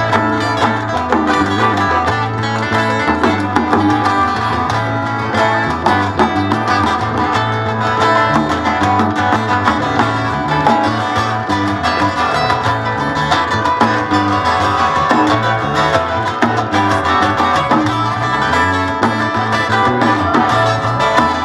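Bluegrass band playing live, an instrumental break with plucked strings over a steady bass line and no singing.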